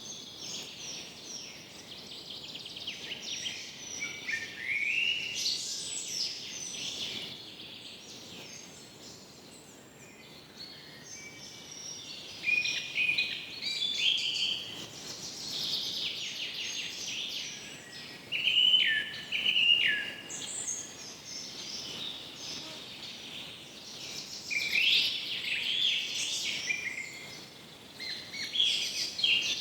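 Several birds calling and singing at once: a dense, overlapping chorus of chirps, trills and short whistled glides that swells and eases in bouts, over a faint steady background hiss.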